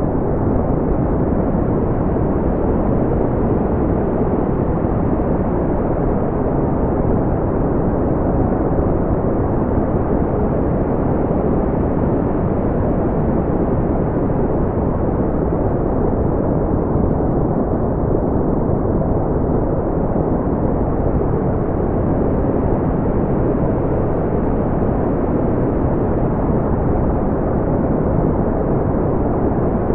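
Brown noise: a steady, deep rumbling hiss with its energy in the low range and little above a few thousand hertz, unchanging throughout.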